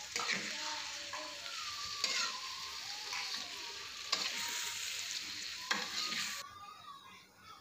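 Chicken and spice paste sizzling in a metal wok while a spatula stirs it, knocking and scraping against the pan four times about every couple of seconds. The sizzling stops suddenly about six and a half seconds in.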